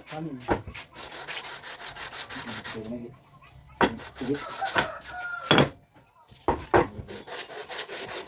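Rapid back-and-forth hand rubbing strokes on a part, about five a second, in two spells: one a second in and another from about seven seconds in. A few sharp knocks and short voice sounds fall between the two spells.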